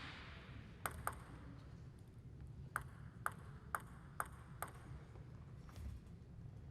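Plastic table tennis ball bounced lightly, seven times, each a short, sharp ping: two quick bounces about a second in, then five about half a second apart.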